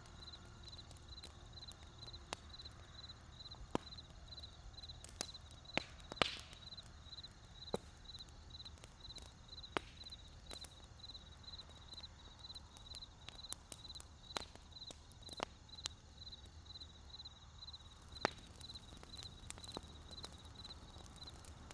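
Wood campfire crackling: sharp pops at irregular intervals, the loudest about six seconds in, over a low steady rumble. A high, thin chirp pulses about twice a second behind it.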